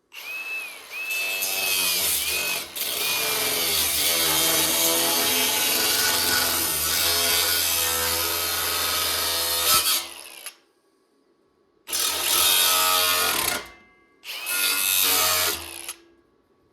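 A power cutting tool cutting sheet metal for a rust-repair patch: one long cut of about ten seconds, then two short cuts.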